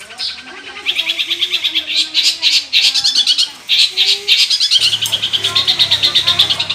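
Long-tailed shrike (cendet) singing a dense, fast run of high chattering notes, many per second, with brief breaks. After one short note it starts in earnest about a second in.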